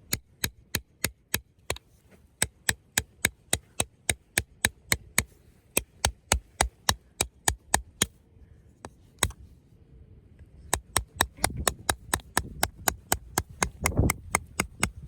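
Hammer driving tent pegs: a fast, even run of sharp strikes, about three a second, stopping for a couple of seconds past the middle and then starting again.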